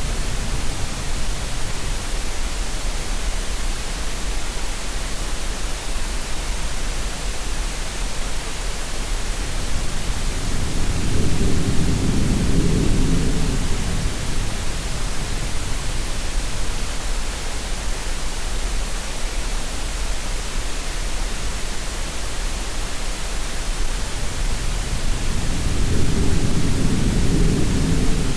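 Steady, even hiss of green noise mixed with sea sound. A low, rumbling swell rises and fades twice, about a quarter of a minute apart, like slow surges of water.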